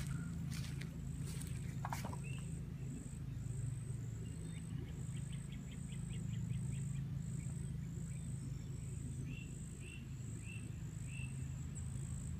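Outdoor animal sounds: an insect's high buzz pulsing about twice a second, a small bird's quick trill, then four short rising chirps, over a steady low hum.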